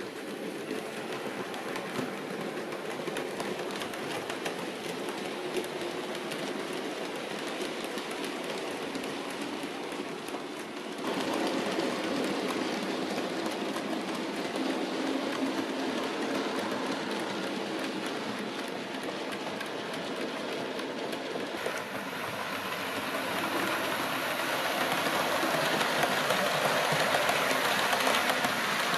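Model train running on the track: a steady motor whir with wheels ticking over rail joints. It steps up in level about a third of the way through and grows louder near the end.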